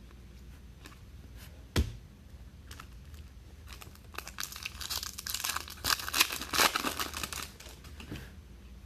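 A single sharp knock about two seconds in, then a Topps Chrome trading-card pack's foil wrapper being torn open and crinkled for about four seconds.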